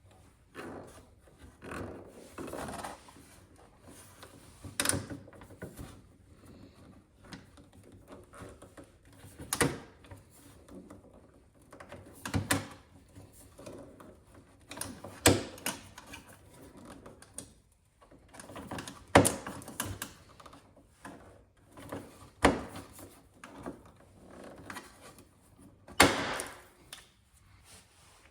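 Hand work on a snowmobile's stud tunnel protectors: sharp clicks and knocks of parts being fitted and fastened, coming every few seconds with quieter handling between.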